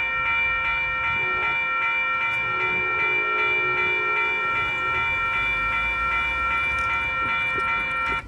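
A railroad warning signal: a long, steady multi-note tone with a pulsing beat, cutting off suddenly near the end.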